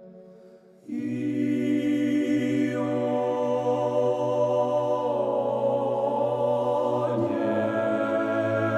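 Orthodox church choir singing a cappella in long held chords. It comes in about a second in after a brief quiet, and the chord shifts roughly every two seconds.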